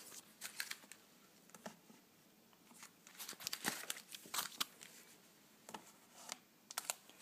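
Packaging of sealed, unopened standees being handled, crinkling faintly on and off.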